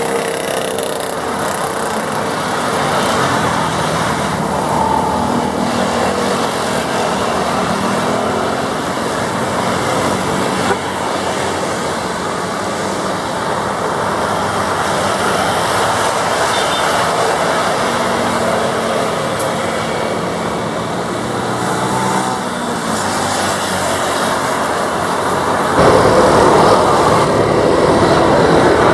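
Steady engine drone of Beech G36 Bonanza propeller aircraft over outdoor roar, with faint drifting engine tones. It grows louder about 26 seconds in.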